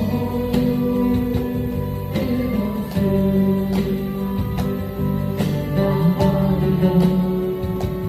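Live acoustic guitar band playing a song, with a held melody line over strummed guitars.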